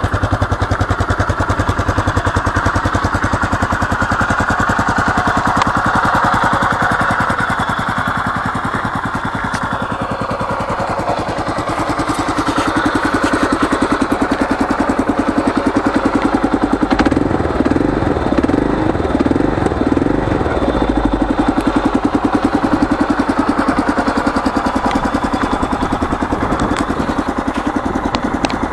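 Kawasaki KLR650's single-cylinder four-stroke engine idling steadily, an even rapid thumping of its firing pulses.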